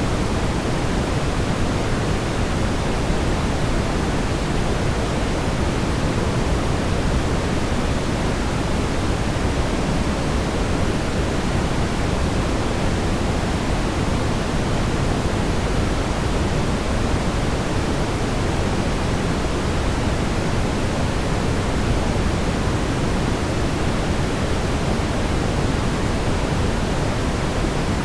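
Steady brown noise, a constant deep rumbling hiss with most of its weight in the bass, unchanging throughout.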